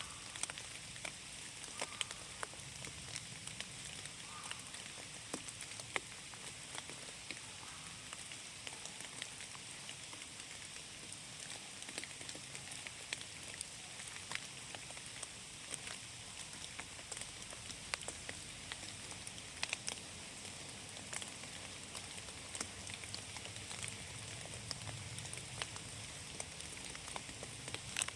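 Steady rain falling in a forest: an even hiss of rainfall with many scattered, irregular ticks of individual raindrops landing close by.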